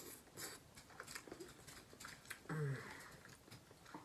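Close-up eating sounds from a seafood boil: scattered wet smacks and small crackling clicks of chewing, with a brief hummed or voiced murmur about two and a half seconds in.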